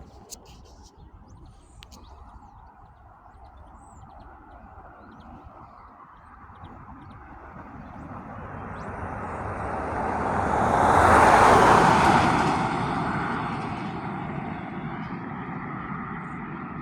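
A vehicle passes close by: a rushing engine and road noise swells over several seconds to a peak a little past the middle, then eases off, though it does not die away.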